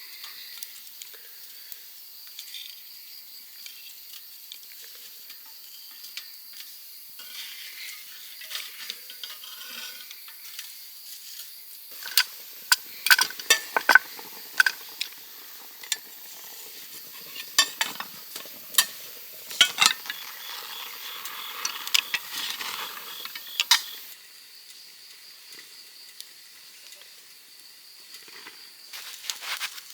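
Food sizzling in a pan, with sharp metallic clicks and scrapes of utensils on cookware clustered in the middle. Steady high-pitched insect calls run underneath until they stop a little over halfway through.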